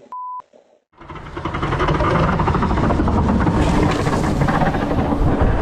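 A brief steady bleep, then about a second in a loud, steady rumbling noise that holds for about five seconds.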